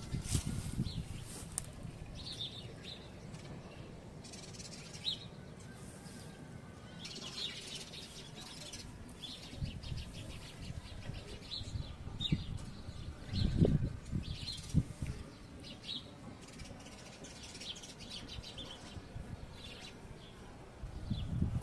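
Small birds chirping, short high calls repeated on and off. A few low thumps break in, the loudest about halfway through.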